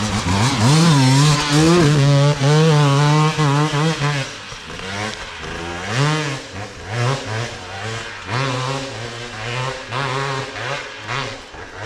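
Enduro motorcycle engine revving hard for about four seconds, its pitch wavering, then dropping back to quieter running broken by short throttle blips, each rising and falling in pitch.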